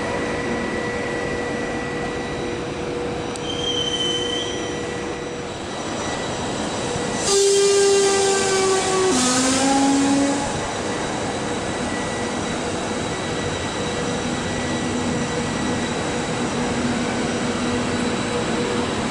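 Italian Frecciabianca express train of Eurofima coaches rolling out of the station with a steady rumble of wheels on rail. About seven seconds in, a loud two-tone train horn sounds: a higher note, then a lower one, together about three seconds.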